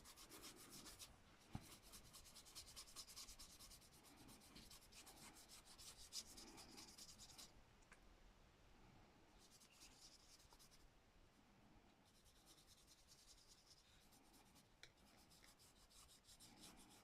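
Faint, quick back-and-forth scratching of a drawing or colouring tool on paper or card, darkening a small area by shading, in several spells with short pauses between.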